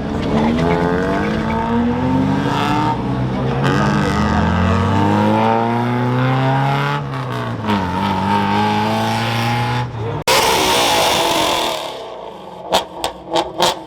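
Car engines revving and accelerating, the pitch climbing, dropping and climbing again as the car pulls away. About ten seconds in there is a sudden loud burst of noise, followed near the end by a few sharp cracks.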